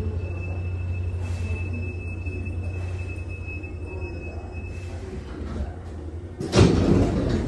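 Hankyu 7000 series electric train, heard inside the car, easing to a stop at the platform: a steady low hum with a thin high whine that stops about four and a half seconds in. A sudden loud burst of noise follows near the end.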